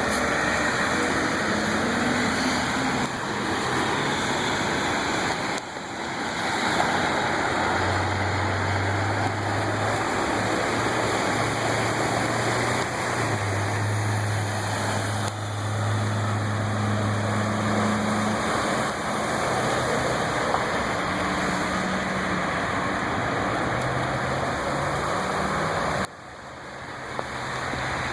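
Steady rushing of floodwater. A motor vehicle's low engine hum joins it from about eight seconds in and fades after about eighteen seconds.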